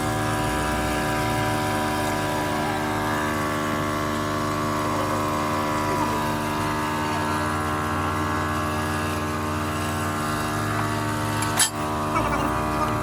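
An engine or motor running steadily, an even drone that holds its pitch throughout, with one sharp knock about twelve seconds in.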